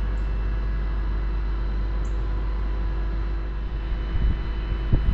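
Steady low outdoor rumble with a faint constant hum, joined near the end by uneven low buffeting gusts.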